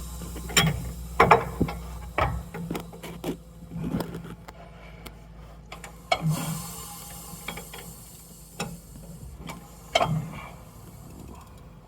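Ford 6.0 Powerstroke V8 turbo-diesel running rough with a steady low hum, broken by irregular sharp knocks and clicks; the engine has a misfire.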